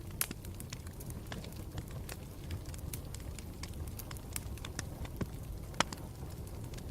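Campfire burning with a steady low rumble and irregular sharp crackles and pops, the loudest pop near the end.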